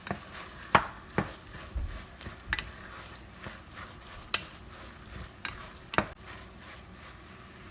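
Ground chicken sizzling in a pan while it is stirred, the utensil clicking and scraping against the pan at irregular moments.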